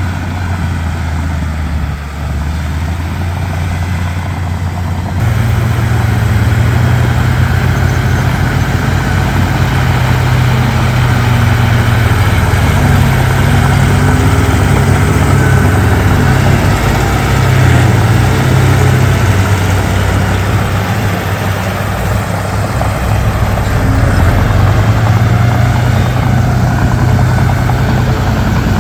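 Komatsu D31P bulldozer's diesel engine running, stepping up in loudness and pitch about five seconds in as it works under load, with the engine note wavering and easing off briefly before rising again.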